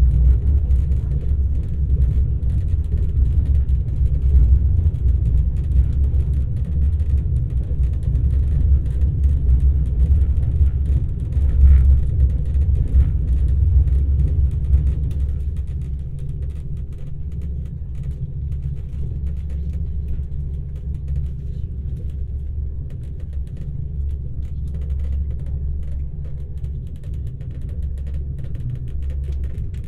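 Alfa Pendular Class 4000 tilting electric train running at speed, heard inside the passenger car as a steady low rumble. It eases slightly about halfway through.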